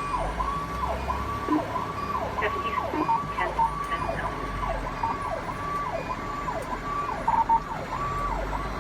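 Fire engine's electronic siren on a fast yelp, rising and falling about one and a half times a second, over the low rumble of the truck's engine.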